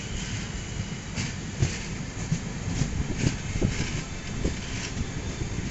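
Passenger train running, heard from aboard the coach: a steady low rumble with irregular clacks as the wheels pass over rail joints.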